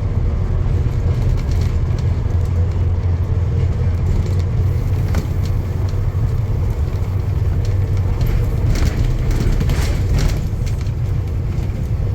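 Steady low rumble of a running vehicle, with a few faint clicks in the second half.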